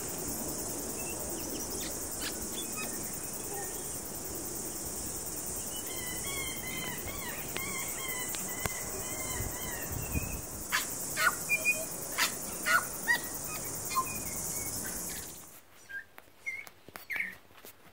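Wild birds calling and chirping over a steady high-pitched hiss: a warbling phrase of calls, then a run of sharp chirps. The hiss cuts off abruptly near the end, leaving scattered short chirps.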